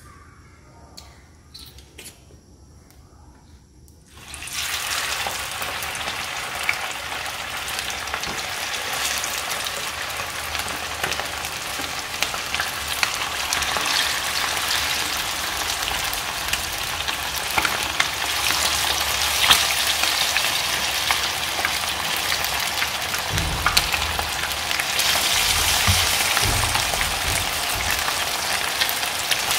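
Battered chicken wings frying in hot oil in a frying pan: a few quiet seconds, then a loud steady sizzle starts suddenly about four seconds in as the wings go into the oil.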